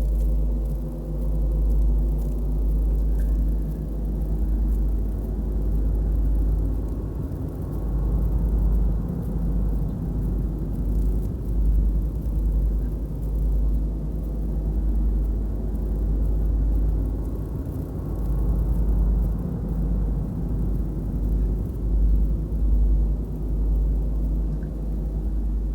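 Small camera drone hovering: a steady hum of several tones over a heavy low rumble, wavering slightly in level.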